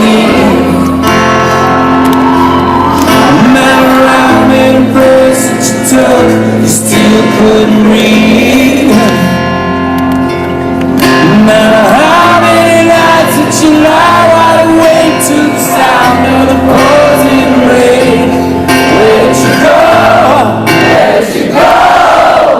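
Live rock concert music in a large hall: guitar chords with sustained bass notes and singing, recorded loud from the audience.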